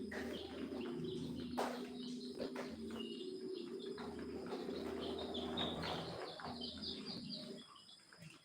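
Birds chirping and calling, with many short high chirps over lower steady calls.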